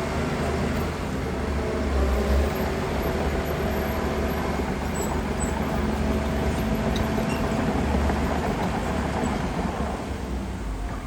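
Heavy diesel engine of earthmoving machinery running steadily, its low rumble swelling briefly about two seconds in and again around eight seconds.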